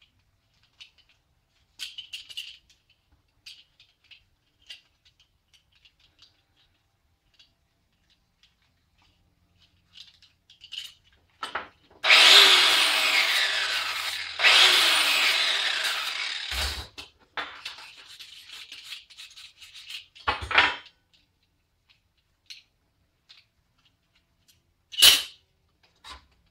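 A handheld power tool is run in two short bursts of about two seconds each, its pitch falling through each burst as it spins down. Light clicks and knocks of metal parts being handled come before and after.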